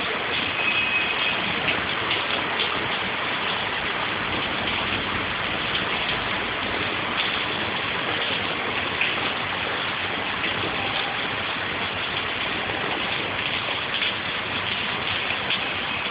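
Heavy monsoon rain pouring down in a steady, dense hiss of rain hitting the ground and running water.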